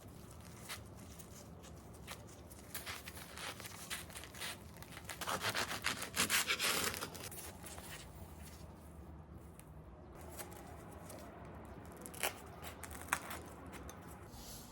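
Food-preparation handling sounds: a burst of tearing or crinkling about five to seven seconds in, with a few scattered light clicks.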